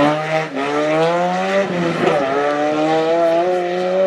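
Classic rally car accelerating hard out of a hairpin, its engine note climbing through the revs. The pitch falls back twice, about half a second and two seconds in, as it shifts up a gear.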